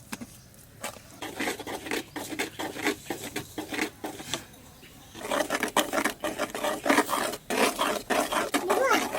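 A utensil stirring and scraping against a cooking pot or bowl, with quick clinks and scrapes that get faster and louder about five seconds in.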